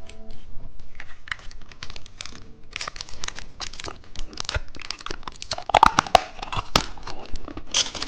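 Plastic candy wrapper being crinkled and torn open, an irregular run of crackles, with a few sharp clicks about six seconds in.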